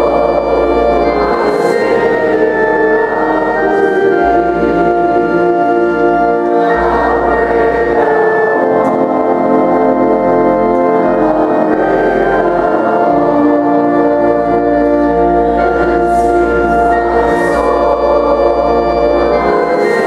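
Organ playing a slow piece in sustained chords over a deep bass line that steps to a new note every second or two.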